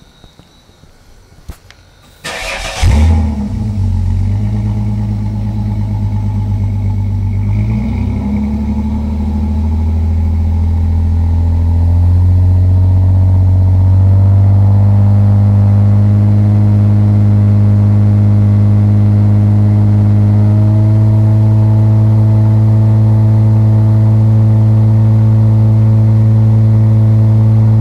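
1997 Holden VS Commodore engine started through a custom 2.5-inch sports exhaust with extractors. A couple of clicks come first, then the engine catches with a loud flare about two seconds in and settles into a steady, deep exhaust idle.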